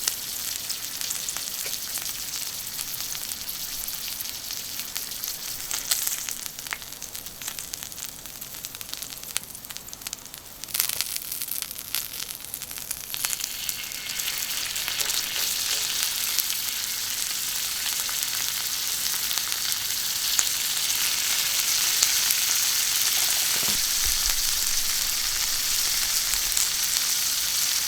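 Food sizzling and spitting on a thick iron griddle plate over charcoal, with fine crackling; the sizzle grows louder about halfway through and then holds steady.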